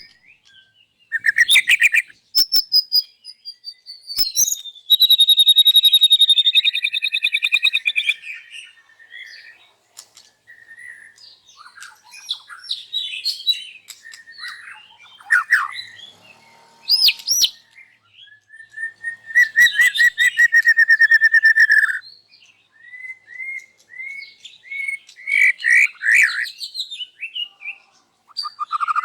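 White-rumped shama singing loudly in a long run of varied phrases: sharp clicks, clear whistles and fast rattling trills, with short pauses between. The bird is opening up its full voice and delivering its repertoire of learned songs.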